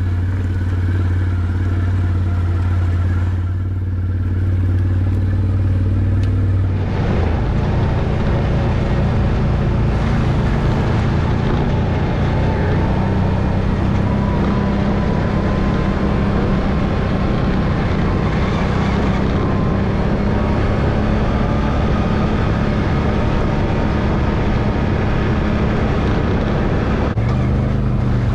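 Off-road vehicle's engine idling steadily, then revving up about seven seconds in and pulling under steady load as the vehicle drives, easing back off near the end.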